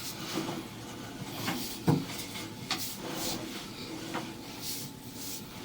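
Scattered knocks and rubbing of a sewer inspection camera's push cable being fed into the drain line, with one sharp knock about two seconds in.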